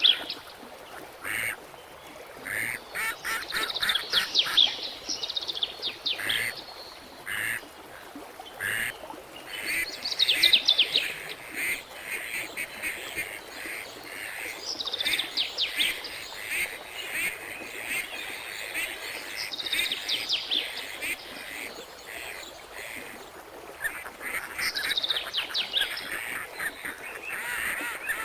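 Birds giving repeated bouts of rapid, chattering calls, each bout lasting a second or two and coming every few seconds.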